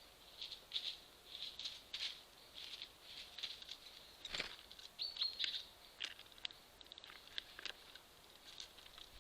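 Eurasian red squirrel at a squirrel feeder stocked with nuts and seeds, a quick irregular run of faint scratching and tapping as it handles the food. A small bird gives a short high chirp about five seconds in.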